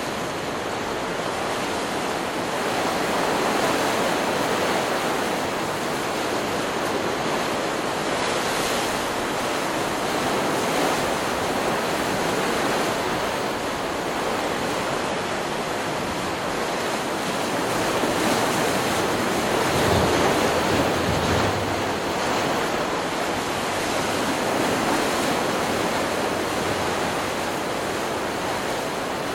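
Stock sound-effect recording of ocean surf: waves breaking and washing in as a continuous rush, swelling louder a few times.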